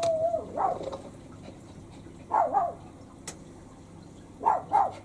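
A dog whining and yipping in short high calls, several times, the first a held whine, over a steady low machine hum.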